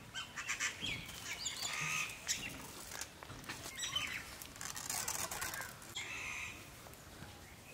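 Small birds chirping in short, repeated calls, with a few light clicks of a ladle against the metal cooking pot.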